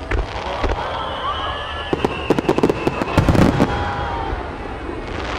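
Aerial fireworks bursting: a couple of bangs, then a rapid cluster of bangs and crackles about two to three and a half seconds in.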